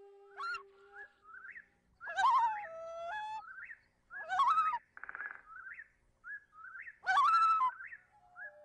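Bird calls: about three loud swooping whistled calls with short rising chirps between them, and a brief buzzy trill about five seconds in.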